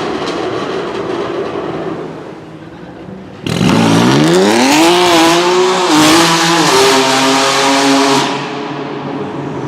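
High-performance car engine. A first engine note fades away, then another engine comes in suddenly and revs hard, its pitch climbing steeply over about a second and a half, holding high with a brief dip, and dropping back to a lower steady note about eight seconds in.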